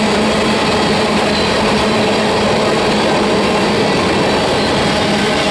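Freight cars of a manifest train rolling past close by: a steady, loud noise of steel wheels running on rail, without a clear rhythm.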